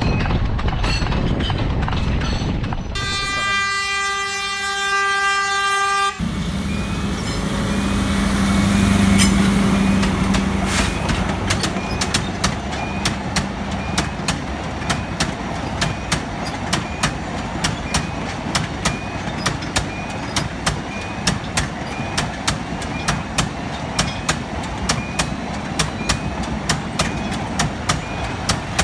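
A train horn sounds one long blast of about three seconds, followed by a passing train running along the track, its wheels clicking over the rail joints in a steady rhythm of two to three clicks a second.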